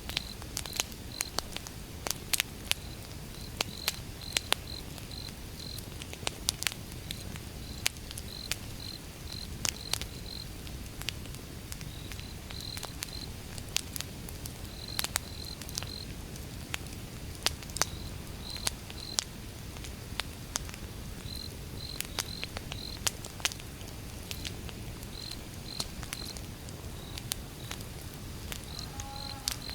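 Wood fire crackling, with irregular sharp pops over a low steady rumble, while crickets chirp in short repeated pulses throughout.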